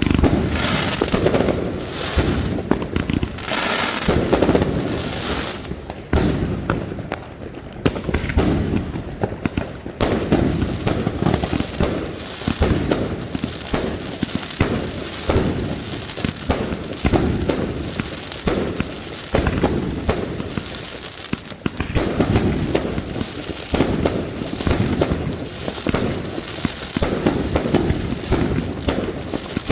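Fireworks going off without pause: a dense run of bangs, pops and crackling, easing a little about a third of the way in.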